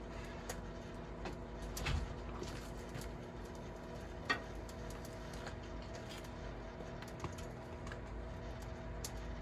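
Microwave oven running with a steady hum, while circuit boards inside arc with irregular crackling snaps; the aluminium heat sink is arcing. One sharp pop about four seconds in is the loudest.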